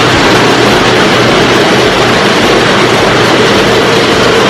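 Automotive paint mixing machine running, its stirring motors giving a loud, steady mechanical drone with a low hum, agitating the paint cans before a mix.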